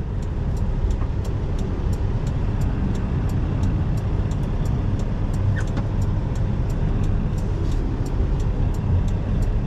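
Semi truck's diesel engine idling, a steady low rumble heard from inside the cab, with a faint, even ticking of about three ticks a second over it.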